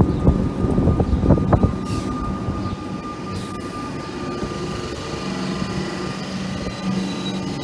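A train running past on the rails: a quick run of wheel knocks and clatter for the first two seconds or so, then a steady rumble with a thin whine.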